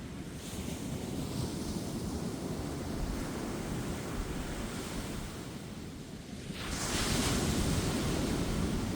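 Ocean waves breaking and washing up a beach, over a steady low rumble of surf and some wind on the microphone. A small wave washes in about half a second in, and a bigger one breaks about two thirds of the way through with a louder, hissing rush that carries on to the end.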